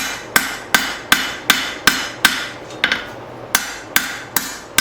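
Hand hammer striking hot leaf-spring steel on an anvil in a steady rhythm, about three blows a second with a short pause a little past the middle, each blow ringing. The smith is rounding up drawn-out stock.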